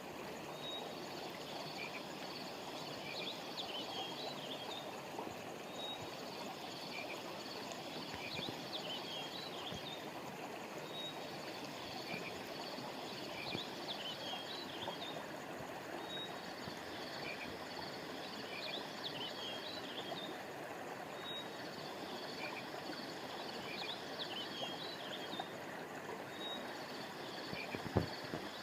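Steady rush of a flowing river, with small birds chirping in short high bursts that come back about every five seconds. A brief low thump near the end.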